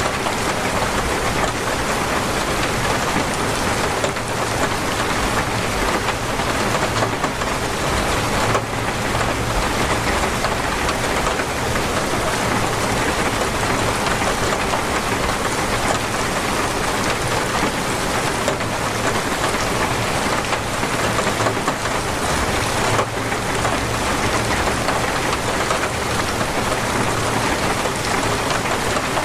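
Torrential rain pouring down and drumming on surfaces in a dense, steady hiss.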